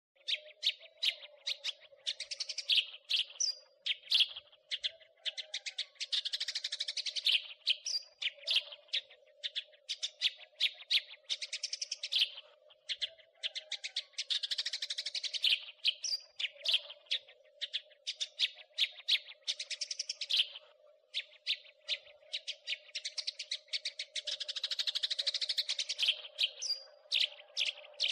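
House sparrow chirping and chattering in rapid runs of short, sharp chirps with brief pauses between runs, over a faint steady hum.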